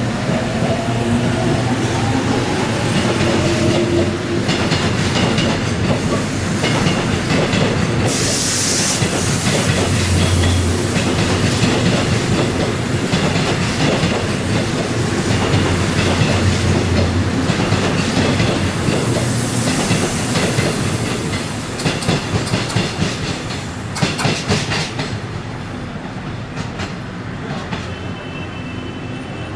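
Train running past on the rails, its wheels clicking over rail joints, with a short high hiss about eight seconds in. Near the end the rumble dies down and the last clicks stand out.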